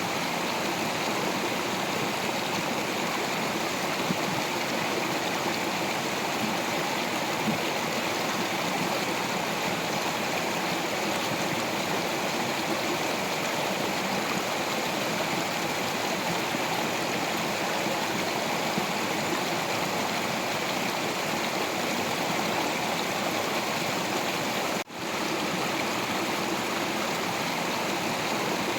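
Stream water flowing over rocks: a steady rushing and babbling. The sound drops out for an instant about 25 seconds in.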